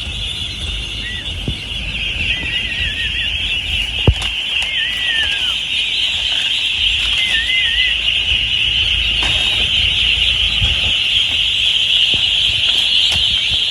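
A very large flock of ducks calling all at once, a dense, steady high-pitched chorus that grows slightly louder, with a few warbling single calls standing out. A low rumble lies underneath, and there is one sharp click about four seconds in.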